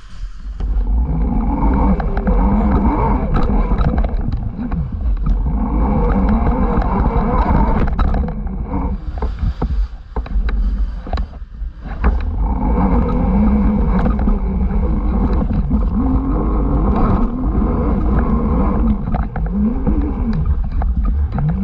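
Off-road motorbike riding along a trail, its motor rising and falling in pitch as the throttle is worked. Heavy wind rumble on the bike-mounted camera's microphone, with scattered knocks.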